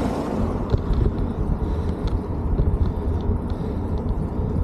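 Wind buffeting the microphone and tyre noise from a folding e-bike in motion, a steady, fluttering low rumble with a few faint ticks.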